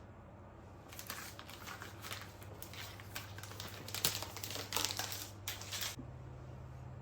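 Crinkling of packaging being handled, a dense irregular rustle from about a second in until about six seconds in.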